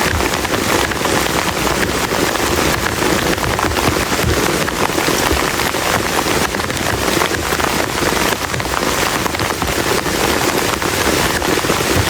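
Heavy rain falling steadily on a plastic camping tarp, a dense, even patter of countless drops.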